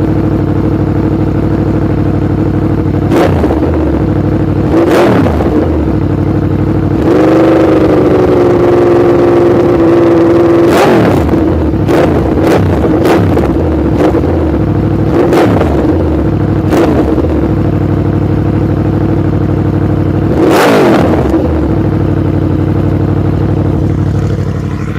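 2014 Yamaha YZF-R1's crossplane inline-four with a Coffman's exhaust, idling between quick throttle blips. About seven seconds in, the revs are held up for about three seconds, then come more short blips and one last rev near the end.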